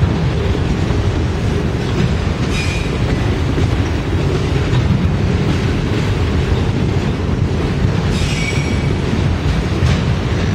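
Freight train of autorack cars rolling past, with a steady heavy rumble of wheels on rail. Brief high-pitched wheel squeals come about two and a half seconds in and again about eight seconds in.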